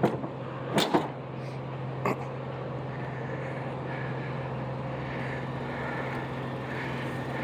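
Toyota pickup truck's engine idling steadily with a low hum. A few sharp clicks and knocks come in the first two seconds.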